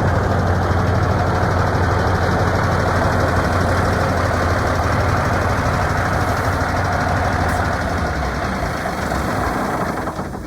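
Diesel engine of a 1986 International 9370 truck tractor idling steadily with a deep, even hum.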